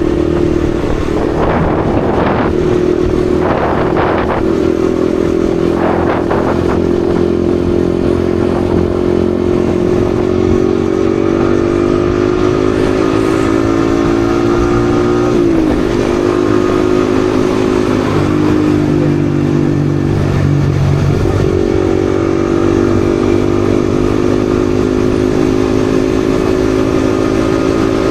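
Yamaha XSR155's 155 cc single-cylinder engine running under way, its pitch slowly drifting, with a brief sharp dip in pitch about halfway through before it settles again.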